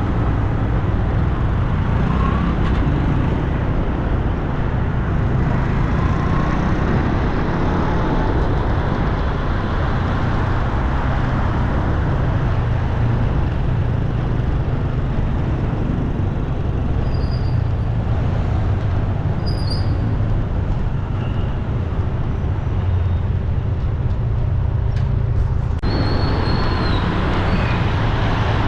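Steady road-traffic noise with a heavy low rumble, its character changing abruptly about 26 seconds in; a few brief high squeaks ride over it now and then.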